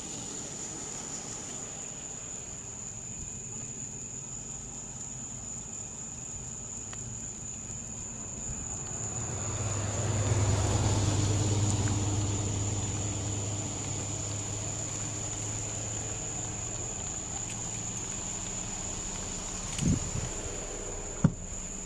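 A vehicle passing on the road, its engine and tyre noise swelling and then fading, over a steady high-pitched insect drone; two short knocks near the end.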